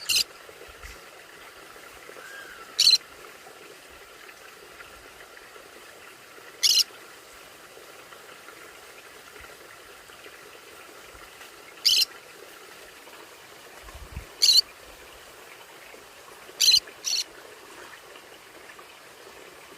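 Conure parrot giving short, sharp, high-pitched calls, seven in all at irregular intervals, the last two close together.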